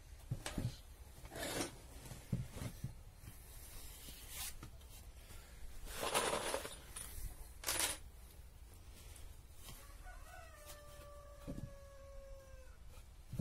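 Several short knocks and a brief scraping noise, then a rooster crows once, about ten seconds in, one long drawn-out call that trails off.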